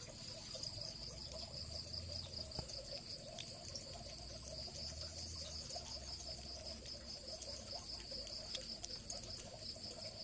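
Insects trilling steadily: a faint, continuous high-pitched chorus with a few light ticks.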